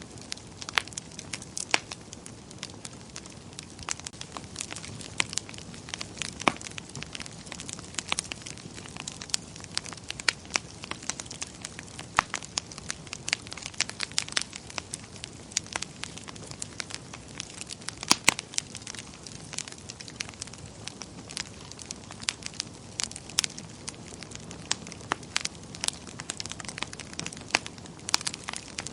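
Wood fire burning in a fireplace, with a steady low rush of flames and irregular sharp crackles and pops, a few louder pops about two-thirds of the way through.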